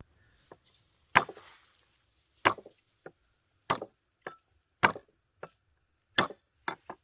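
Chopping with a blade on wood: five heavy strikes about a second and a quarter apart, each followed by one or two lighter knocks, with a few light taps in between.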